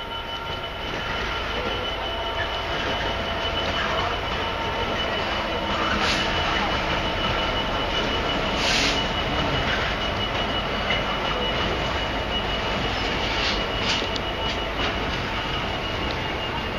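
Freightliner Class 66 diesel-electric locomotive, with its two-stroke EMD V12 running, hauls a freight train of hopper wagons slowly past; a steady rumble of engine and wheels on the rails, with a thin high whine throughout and two short, sharper bursts of hissing squeal about six and nine seconds in.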